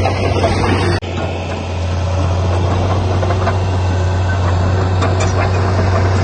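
Diesel engine of heavy earthmoving machinery running steadily with a low drone; the sound cuts out for an instant about a second in.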